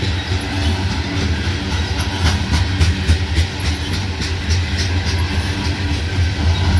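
Hopper cars of a CSX coal train rolling past, with a steady low rumble, wheels clicking over rail joints several times a second, and brief faint high wheel squeals.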